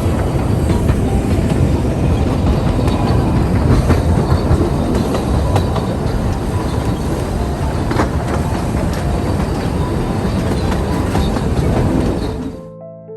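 Puffing Billy narrow-gauge steam train running, a loud rumble with wheels clattering over the rails, cutting off suddenly near the end.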